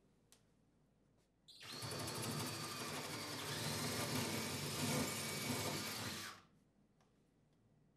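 Power drill boring a pilot hole: it starts about one and a half seconds in, runs steadily for nearly five seconds, then stops.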